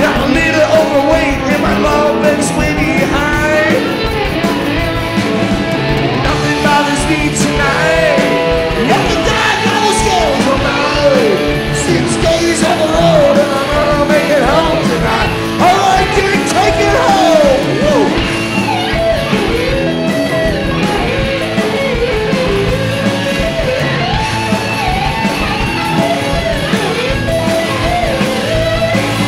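Live rock band playing a song with electric guitar, bass and drums, and a singer's voice over it.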